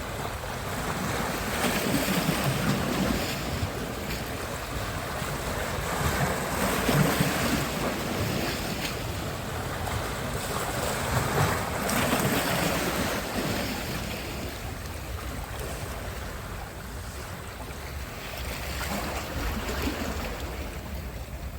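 Sea surf: waves washing in and breaking, the rush swelling and easing every few seconds, with wind buffeting the microphone.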